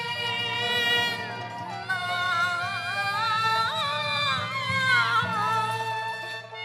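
Cantonese opera music from the accompanying ensemble: a melody with wavering, bending pitch over steady held notes, with no words sung.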